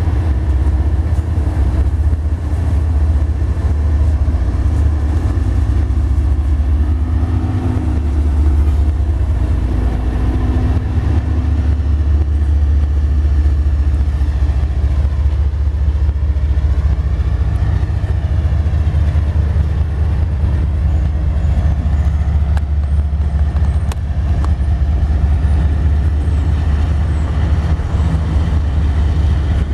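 Diesel-electric freight locomotives passing close by, a loud steady low engine rumble mixed with the rolling noise of the train's double-stack container cars.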